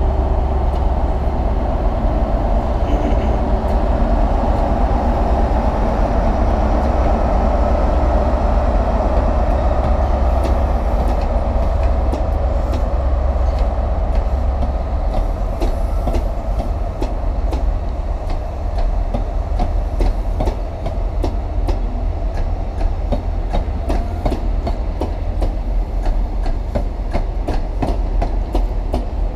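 InterCity 125 high-speed train passing: the Class 43 power car's diesel engine drones steadily. From about halfway through, the Mark 3 coaches' wheels click over the rail joints in quick, uneven beats as the carriages go by.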